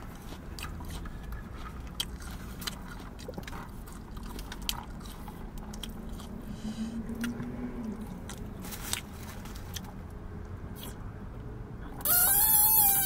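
Close-miked chewing and biting into fast food, with scattered small crunches and mouth clicks. Near the end comes a loud, wavering vocal sound.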